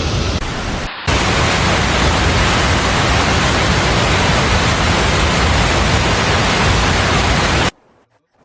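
Heavy rain pouring down in a dense, steady hiss, with a brief break about a second in and an abrupt cut-off near the end.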